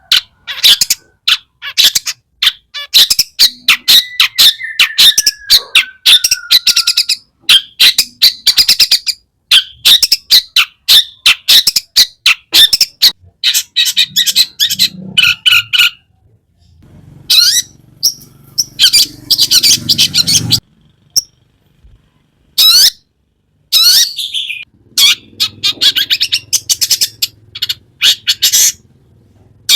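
Long-tailed shrike singing a fast, harsh chattering song mixed with mimicked phrases, with a drawn-out falling whistle about four seconds in and a few short pauses in the second half.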